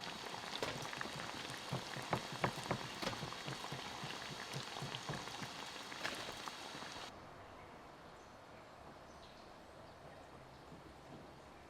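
Hot oil sizzling and crackling, with many sharp pops, as buns deep-fry. It cuts off suddenly about seven seconds in, leaving faint background ambience.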